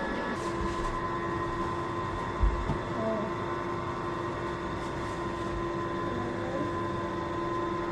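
Steady mechanical hum with a few fixed tones, and one dull thump about two and a half seconds in.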